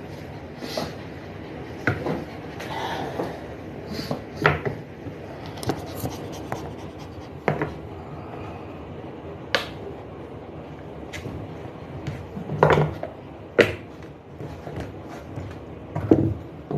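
Irregular clicks, knocks and rubbing of close handling, with the sharpest clicks about ten seconds in and near the end, over a steady low background.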